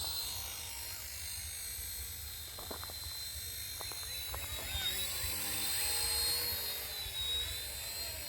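Small electric RC helicopter in flight: its motor and rotor give a steady high-pitched whine that dips slightly now and then. Wind rumbles on the microphone underneath.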